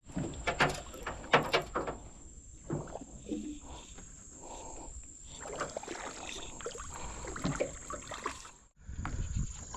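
Knocks and clatter around a small boat on the water, with some water sloshing, under a steady high-pitched drone of insects.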